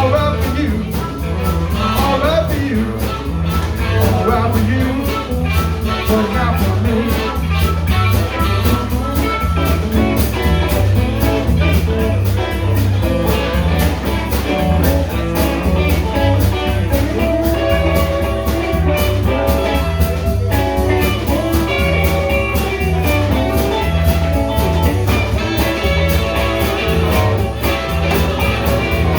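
A band playing an instrumental blues-rock break: electric guitar over a bass line and drums keeping a steady beat.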